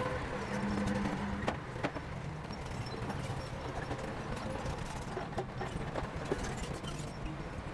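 A bulldozer's diesel engine running steadily, with irregular clanks and knocks from its steel tracks and blade as it works.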